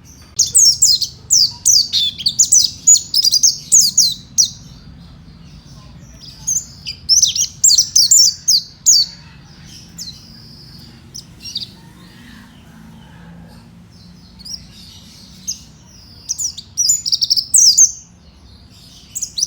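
A mountain white-eye (pleci monty) singing rapid, high twittering phrases in bursts, about five phrases with short pauses between them. The first phrase, a few seconds long, is the longest.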